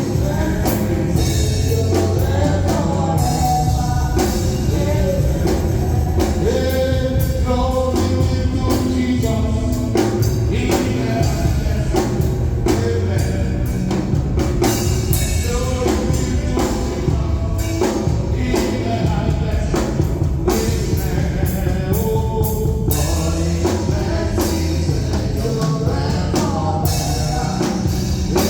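Live gospel praise music: singing over a band with drum kit, loud and continuous.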